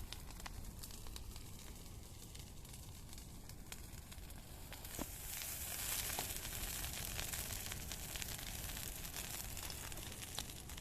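Bonfire of garden rubbish crackling with scattered sharp pops over a steady hiss, the hiss swelling louder about halfway through as the fire catches.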